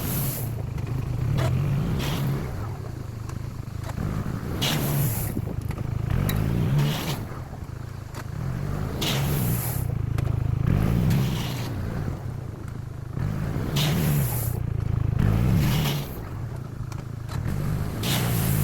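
Bombardier Quest 650 ATV engine revving up and easing off again and again as it pushes gravel, with gravel scraping now and then.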